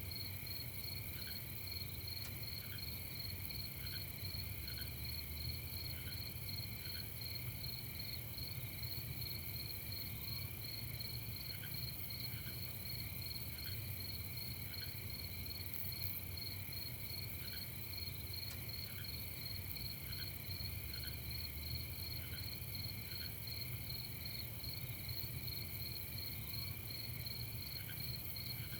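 Night chorus of crickets: a steady, fast-pulsing high trill, with single short lower chirps every second or so, over a faint low steady hum.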